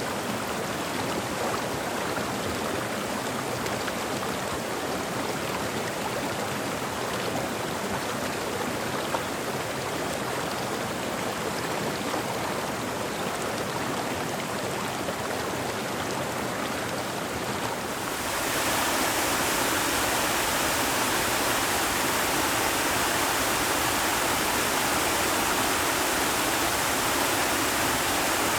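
Steady rushing of water, an even hiss that turns louder and brighter about two-thirds of the way through.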